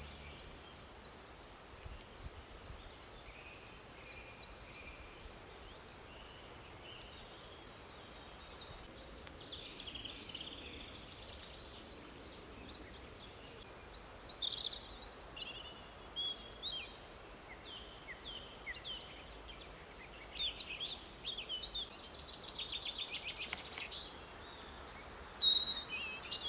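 Woodland birdsong: several small birds chirping and trilling over a faint background hiss, busier from about a third of the way in.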